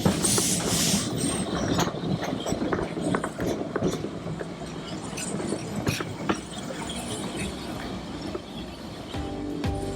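Heritage railway train running on the rails: a steady rumble with frequent clicks and rattles. A loud hiss opens it and stops about a second in.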